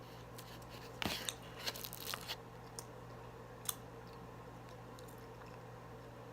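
Crunchy bite into Popeyes fried chicken breading, with a quick run of crackling crunches about a second in and one more small crunch a couple of seconds later, then quiet chewing.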